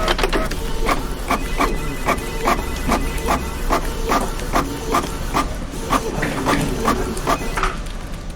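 Office printer running, clacking in an even rhythm about two and a half times a second, over a steady low hum of office ambience.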